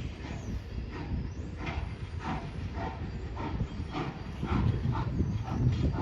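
A train running past, with a regular clacking beat about twice a second over a rumble that swells louder after about four and a half seconds.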